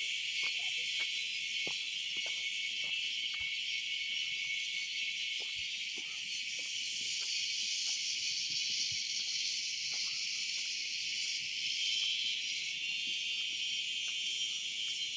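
Steady, high-pitched drone of a forest insect chorus, with faint scattered clicks beneath it.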